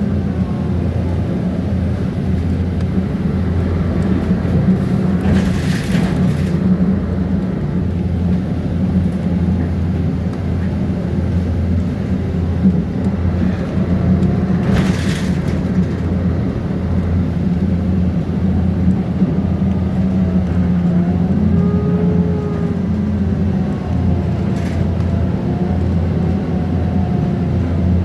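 Mercedes-Benz Conecto G articulated bus's OM457LA inline-six diesel running steadily under way, with a continuous low drone. Faint squeaks and whines of the bus's body parts and fan glide in pitch over it. There is a short hiss about six seconds in and another about halfway through.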